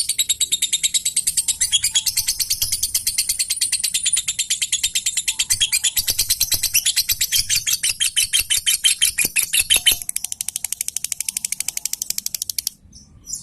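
Lovebird singing a long, unbroken ngekek: a rapid chatter of high chirps, about seven a second. About ten seconds in the chatter turns faster and quieter, and it stops near the end, followed by a few separate chirps.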